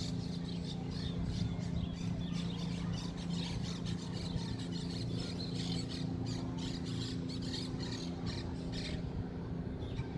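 A flock of birds chirping and squawking in many quick overlapping calls, over a steady low hum.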